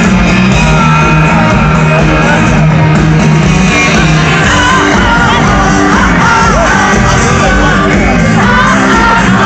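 A rock band playing loudly live through a big PA, with voices singing and shouting over the music from among the crowd.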